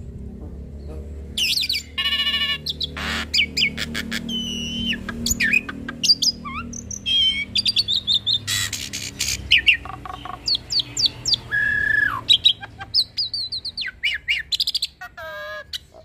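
Hybrid jalak starling (Jalak Nias x Jalak Suren cross) in full song. It runs through a fast, varied string of whistles, rapid trills, warbles and harsh squawks, the mimicked 'isian' phrases of a gacor bird, including a held whistle about twelve seconds in.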